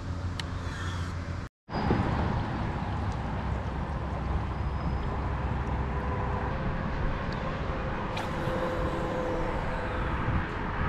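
Steady rumble of road traffic from a nearby expressway, cutting out briefly about a second and a half in.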